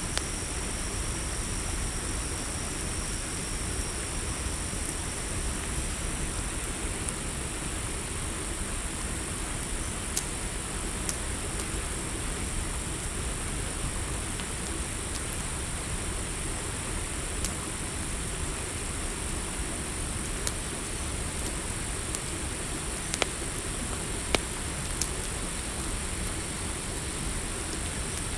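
Campfire burning with a low steady rumble and a few sharp crackles and pops, under a constant high-pitched chirring of crickets.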